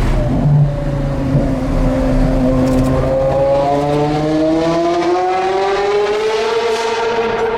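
Porsche Carrera GT's 5.7-litre V10 with an FVD exhaust accelerating: the engine note dips briefly, then climbs steadily in pitch for several seconds and levels off near the end.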